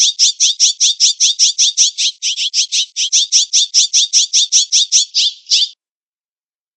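A jay calling in a rapid, even series of harsh, high chattering notes, about six a second. The run breaks off abruptly about a second before the end.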